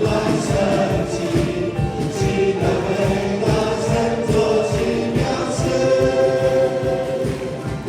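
Live worship music: a group of voices singing a praise song together over a band with a steady beat.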